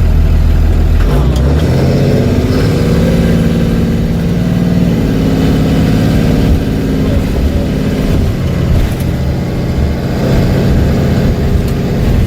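Blue Bird Vision school bus engine running under load, its pitch rising over the first few seconds as it accelerates, then falling away about eight seconds in.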